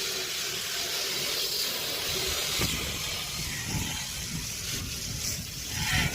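Water spray gun jetting a steady hissing stream of water onto an air conditioner's dusty condenser fins, washing off the dry dust.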